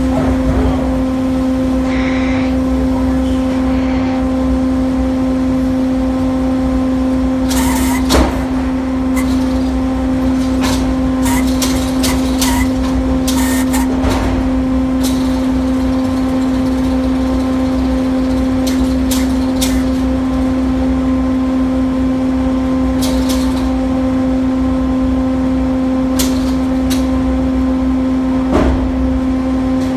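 Hurdle sawmill's machinery running with a loud, steady hum, with scattered knocks and clanks from the mill's moving parts, the sharpest about a quarter of the way in.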